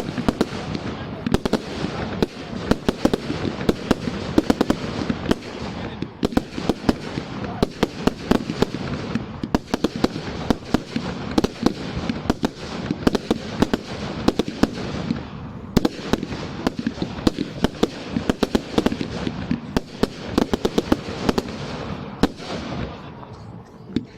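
Fireworks display: a dense barrage of rapid bangs and crackles, many per second, thinning out near the end.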